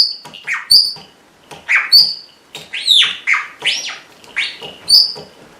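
Red-rumped parrot giving a run of short bark-like calls, each sweeping downward in pitch, mixed with brief clear high chirps, about two calls a second. The bird is imitating a small dog's barking.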